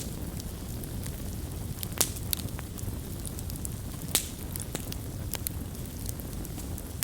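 Campfire burning with a steady low rumble and scattered sharp pops and crackles of wood, the loudest pops about two seconds in and just after four seconds.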